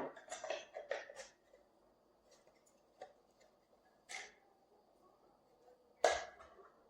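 A few short clicks and knocks in a small room: a quick cluster in the first second and a half, two lighter ones about three and four seconds in, and one louder knock about six seconds in.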